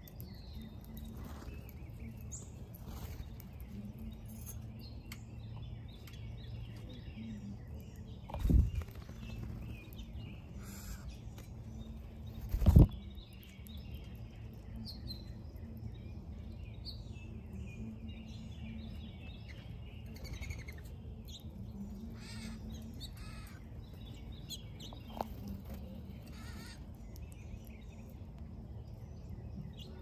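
Wild birds chirping and calling, many short high notes scattered throughout, over a steady low hum. Two loud low thumps break in, about four seconds apart, roughly a third of the way in.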